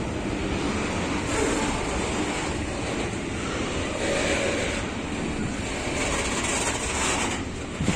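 Freight train behind an ET22 electric locomotive rolling past as a steady, even noise, mixed with wind buffeting the microphone.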